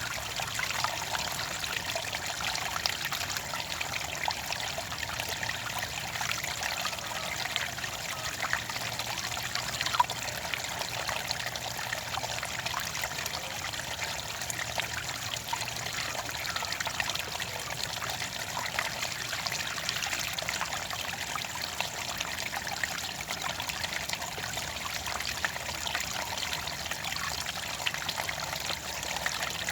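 Clear water trickling and splashing steadily, with many small droplet sounds and one brief louder splash about ten seconds in.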